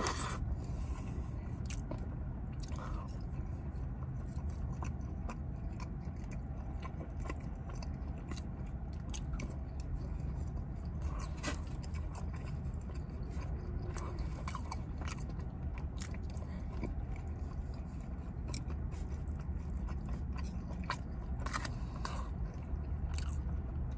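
Close-up mouth sounds of a person chewing and biting food (glazed barbecued pork and noodles), with scattered small clicks and smacks. A steady low hum runs underneath.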